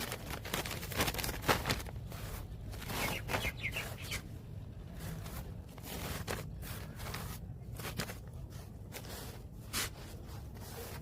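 Irregular rustling, scraping and light knocks of close handling over a steady low hum, with a short run of bird chirps about three seconds in.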